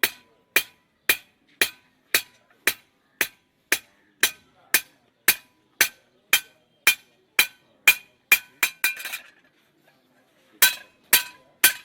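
Blacksmith's hammer striking metal on an anvil with a ringing clang, a steady beat of about two blows a second. The blows quicken briefly, pause for over a second, then three more strikes come near the end.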